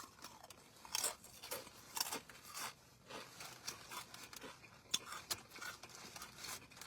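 A person chewing a mouthful of a Subway sub on jalapeno cheese bread, with soft mouth clicks at irregular intervals.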